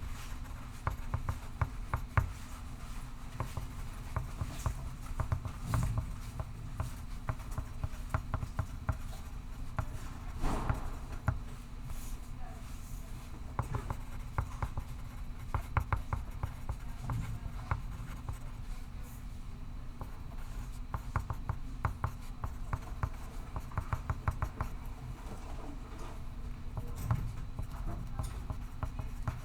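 Pencil scratching on paper in continuous writing strokes, over a steady low hum, with one brief louder scrape about a third of the way in.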